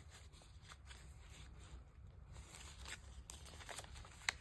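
Faint rustling and light ticks of paper journal pages being handled and turned, with one sharper tick near the end.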